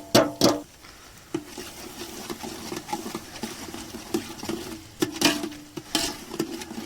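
A metal spoon or ladle stirring and scraping in a metal cooking pot, with a few ringing clanks as it knocks against the pot's rim, at the start and again about five seconds in.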